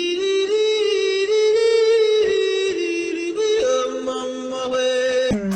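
Music of long held sung notes, the pitch stepping up about three and a half seconds in.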